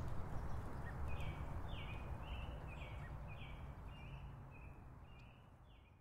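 Outdoor ambience with a steady low rumble and a bird singing a run of short, repeated falling notes, about two a second, the whole fading out near the end.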